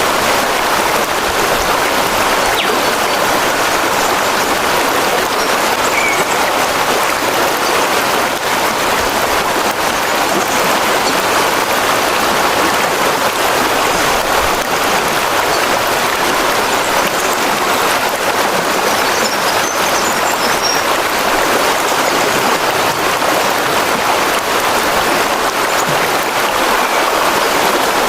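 Steady rushing of water, an even noise with no pauses or changes.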